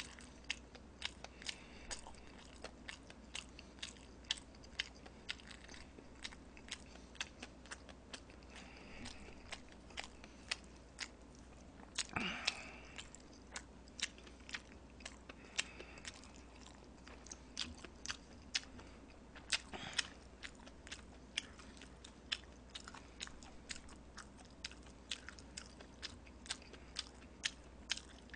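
Close-miked chewing of swollen, soggy Chapagetti black-bean instant noodles: sticky wet mouth clicks and smacks, a few each second, with one longer, louder slurp about twelve seconds in.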